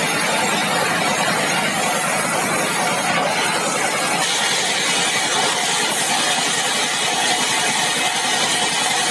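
Sawmill saw and its engine running steadily. About four seconds in, a brighter hiss and a faint high tone join in.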